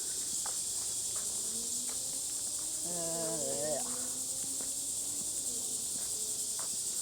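A steady, high-pitched chorus of insects that keeps up without a break.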